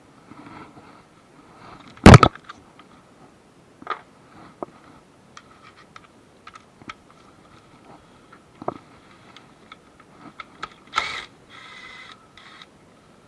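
Scattered clicks and knocks of tools and parts being handled, with one loud bang about two seconds in and a short clattering rattle near the end.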